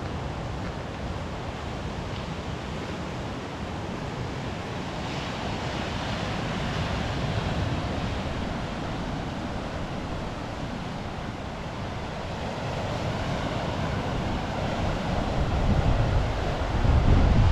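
Waves washing on the shore of the Kattegat sea, swelling and easing, with wind buffeting the microphone as a low rumble that grows stronger near the end.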